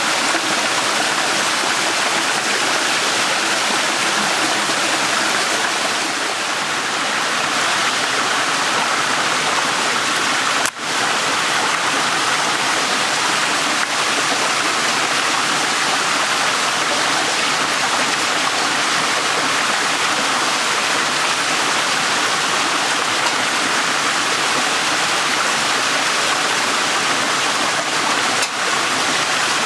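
Small stream running steadily, a continuous rush of flowing water. The sound drops out for an instant twice, about a third of the way in and near the end.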